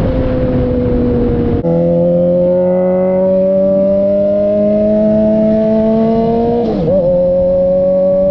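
A 2006 Suzuki GSX-R600's inline-four engine running through a Coffman's exhaust under way, its note climbing slowly and steadily. A rushing noise cuts out suddenly about a second and a half in, and near the end the note briefly wavers and dips before picking up again.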